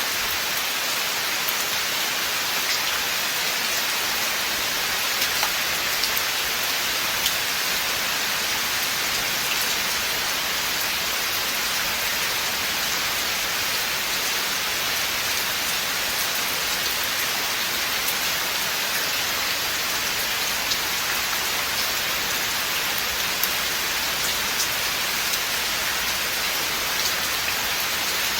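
Steady rain falling in a forest, a dense even hiss with scattered individual drops ticking on leaves and surfaces.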